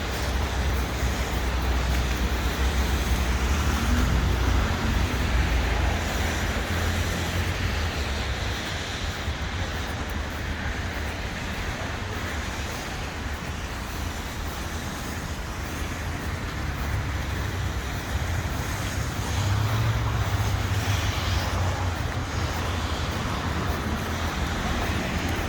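Street traffic: a steady rumble of passing cars and engines, swelling a little twice as vehicles go by.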